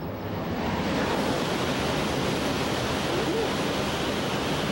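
Shinkansen bullet train approaching at high speed on a viaduct: a rushing noise of wheels and air that swells over about the first second, then holds loud and steady.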